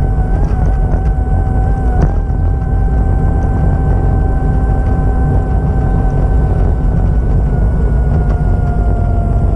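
Vehicle running with a loud low rumble and a steady whine that drops slightly in pitch near the end.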